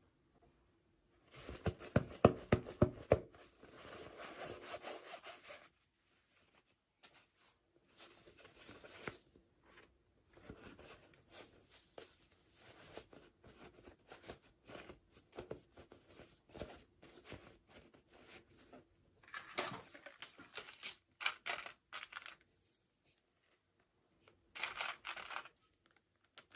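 Packaging being opened by hand: irregular bursts of tearing, rubbing and scraping, with a fast run of scratchy strokes about two seconds in and short pauses between bursts.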